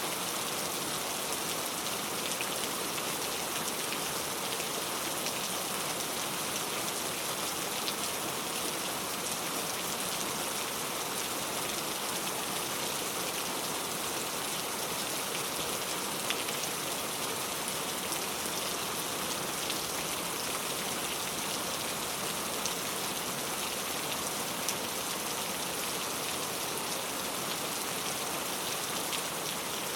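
Steady heavy rain falling, an even hiss with scattered individual drops ticking.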